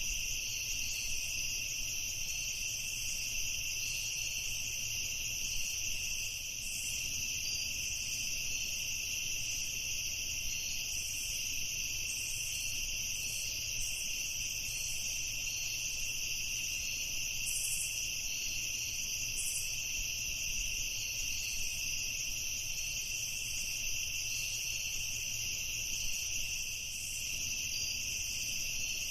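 Steady, unbroken chorus of night-singing insects, a high continuous trilling that holds at an even level throughout.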